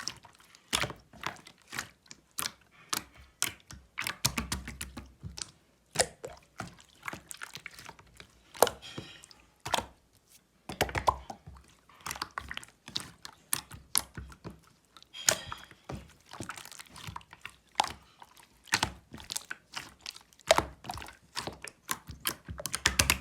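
Slime being squished and pressed by hand, making irregular sticky clicks and wet pops.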